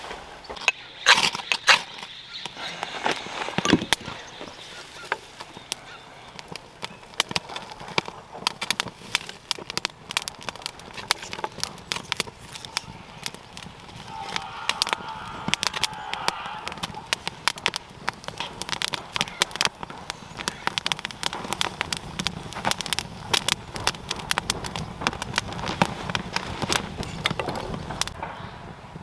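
Wood campfire crackling, with irregular sharp pops all through.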